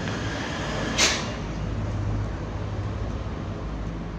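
Scooter brake lever squeezed, with one sharp click about a second in, over a steady low vehicle rumble.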